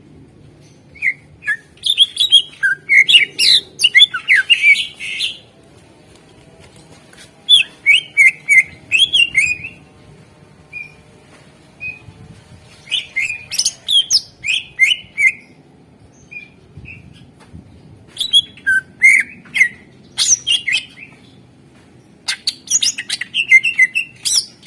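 Cucak ijo (greater green leafbird) singing in five bursts of fast, varied chirps and whistled notes, with short pauses between them and a few single notes in the gaps.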